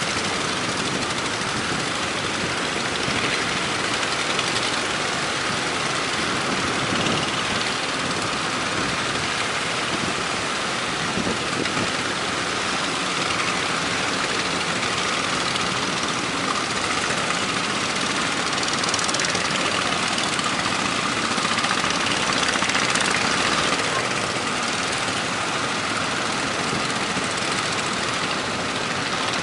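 Steady rushing noise of strong wind and rough surf, swelling a little now and then.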